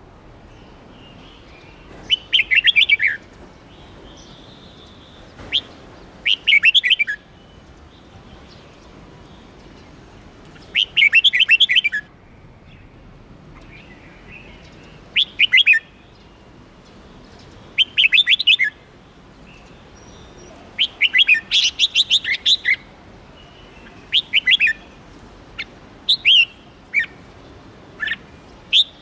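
Red-whiskered bulbul singing: short, quick phrases of chirping notes that come every few seconds.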